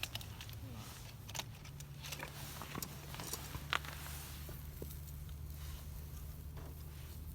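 Scattered light clicks and clinks of cooking utensils at a campfire grill, with a sharper knock near the middle, over a steady low hum.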